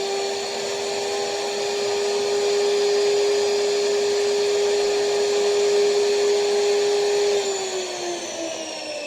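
Power saw's electric motor running at a steady high whine, then switched off about seven seconds in and winding down with a falling pitch.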